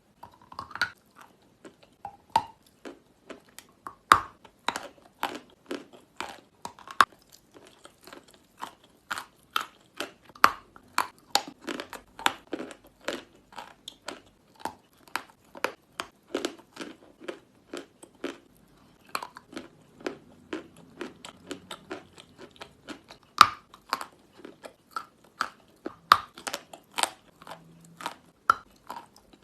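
Natural chalk being bitten and chewed close to the microphone: a dense, irregular run of sharp crunches, with a few louder bites standing out, one about four seconds in and another late on.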